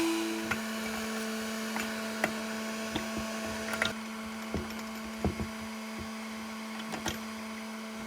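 Scattered light clicks and knocks of small parts being handled during the chainsaw's disassembly, over a steady electrical hum.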